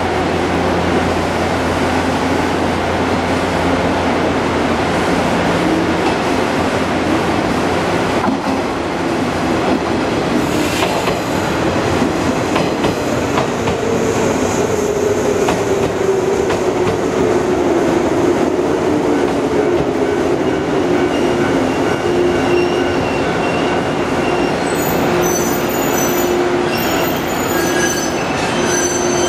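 115-series electric multiple unit trains running over station pointwork, with a continuous rumble and wheel clatter. About halfway through, a tone slowly sinks in pitch. Near the end, thin high wheel squeal comes from the curved track.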